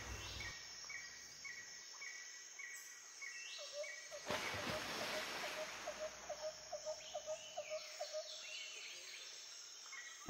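Faint background bird chirping: a run of short, evenly spaced high chirps, about three a second, then a lower run of quicker repeated chirps in the second half, with a brief rush of noise about four seconds in.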